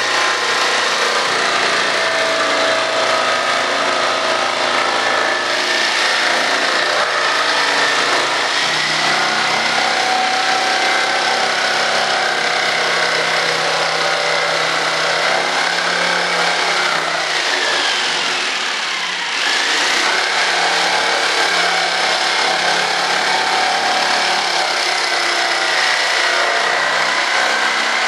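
Electric power tool cutting or working wood, running steadily. About two-thirds of the way through, its motor note slides down and then comes back up.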